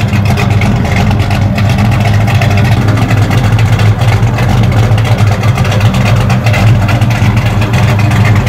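1970 Dodge Charger R/T SE's 440 cubic-inch (7.2 L) V8 idling steadily through its exhaust, loud and deep.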